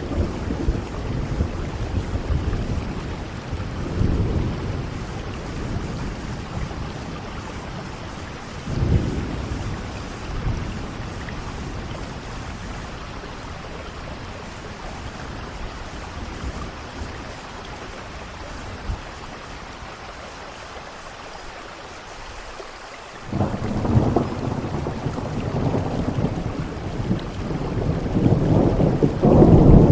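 Steady rain with rolls of thunder: a few rumbles early on, a quieter stretch, then thunder breaks in suddenly about two-thirds of the way through and rumbles louder toward the end.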